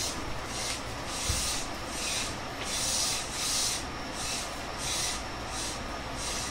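JR West 221 series electric train heard from on board: a rhythmic hissing rasp repeating about one and a half times a second over a low steady rumble.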